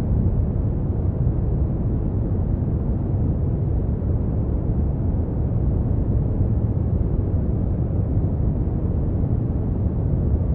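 Steady brown noise: an even, deep rumbling hiss with most of its energy in the bass and little in the treble.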